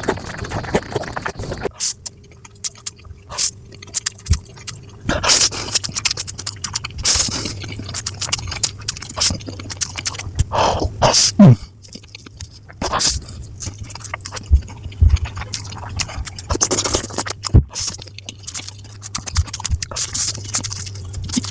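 Someone eating stir-fried noodles, played at double speed: a quick, irregular run of chewing and mouth noises with sharp clicks, over a steady low hum.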